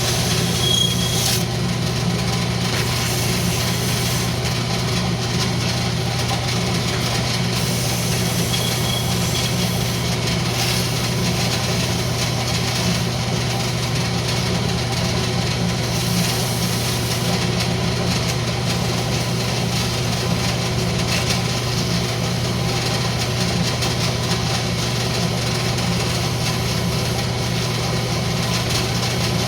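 Wood lathe motor running with a steady hum, with the hiss of 180-grit sandpaper rubbing against the spinning rosewood.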